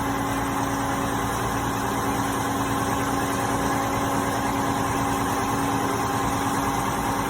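An engine or machine motor running steadily at an even pitch, a constant hum with a few held tones.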